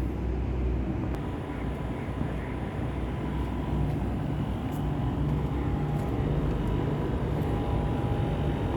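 Steady low mechanical hum with a faint steady whine over it, even and unchanging.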